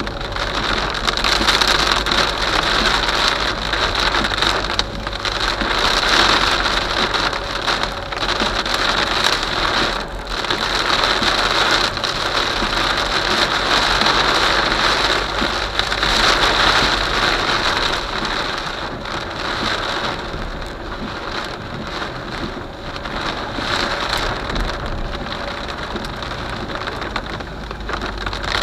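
Heavy rain falling and pattering on a hard surface close to the microphone, a dense hiss of drops that swells and eases in waves.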